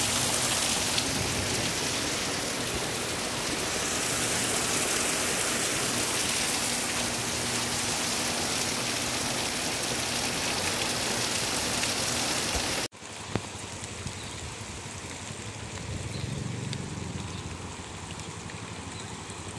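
Heavy rain pouring onto pavement and a flooded street, a loud, dense, steady hiss. About 13 seconds in it cuts suddenly to a quieter, steady rush of rain and water.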